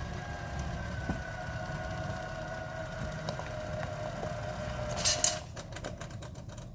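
Electric winch motor whining steadily as it pulls under load, its pitch sagging slightly, over a truck engine idling. About five seconds in it stops with a loud clatter and a few clicks.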